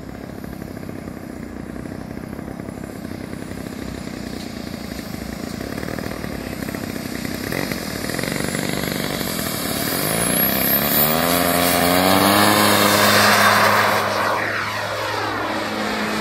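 Large radio-controlled model airplane taking off under power: its engine noise builds steadily, climbs in pitch about ten seconds in as it gets loudest, then drops in pitch and fades as it passes.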